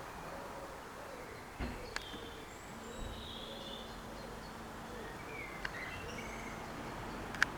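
Small birds chirping in short high calls over a faint steady hum of outdoor background noise, with a few sharp clicks, the loudest near the end. No church bells are ringing.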